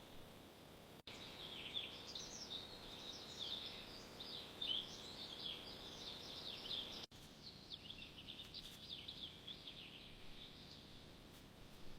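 Songbirds chirping: many short, quick calls overlapping in a busy chorus over faint outdoor background noise, thinning out in the last few seconds. The sound drops out abruptly for an instant twice, about a second in and again past the middle, at cuts in the soundtrack.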